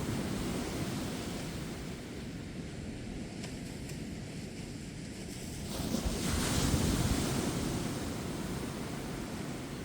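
Ocean waves breaking on a beach, a steady wash of surf that eases, then swells again as a wave breaks about six seconds in and slowly dies back, with some wind on the microphone.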